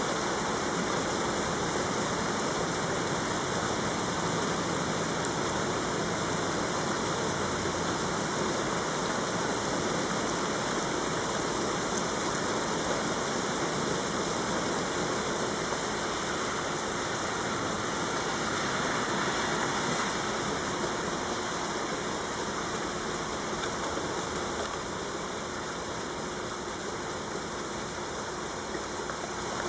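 Heavy rain pouring steadily in a thunderstorm, a dense, even hiss that eases slightly about two-thirds of the way through.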